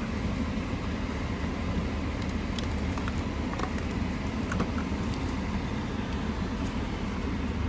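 Steady low hum of the car running, heard from inside the cabin, with a few faint clicks.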